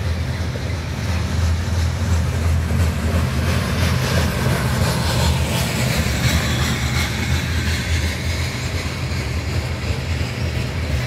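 Loaded covered hopper cars of a freight train rolling past on steel wheels, with a steady low rumble and the hiss and clatter of wheels on the rails.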